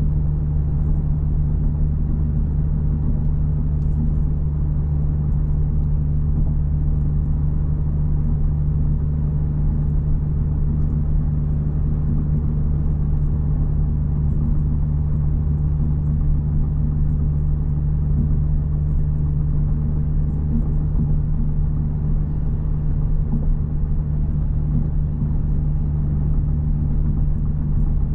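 Audi S5 driving, heard from inside the closed cabin: a steady deep engine drone with road noise, unchanging throughout.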